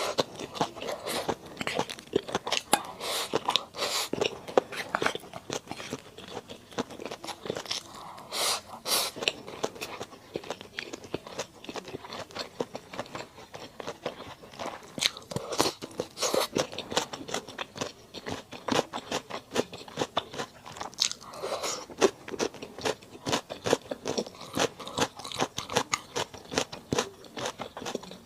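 Close-miked eating of spicy mala duck: steady chewing with many sharp, crisp crunches and wet bites, several a second.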